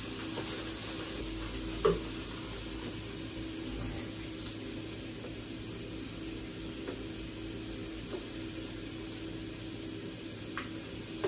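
Steady hiss with a low hum in a kitchen, broken by a sharp knock about two seconds in and a lighter tap near the end.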